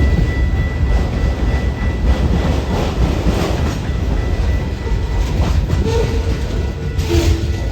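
Train passing close by: a steady heavy rumble of railcars rolling over the track, with a faint clickety-clack of wheels over the rail joints.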